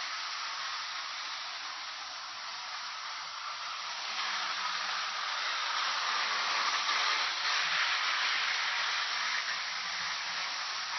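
Steady hissing, like escaping steam, from a train, with no clear rhythm. It grows a little louder about four seconds in.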